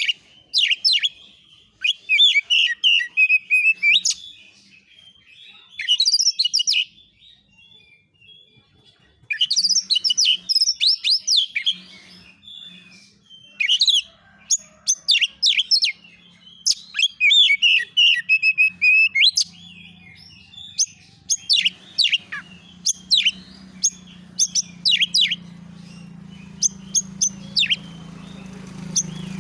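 Oriental magpie-robin (kacer) singing in loud bursts of sharp, downward-sweeping whistles and scratchy chatter, with short pauses between phrases, in the fast, agitated style that bird keepers call 'konslet'. A low steady hum grows underneath in the last third.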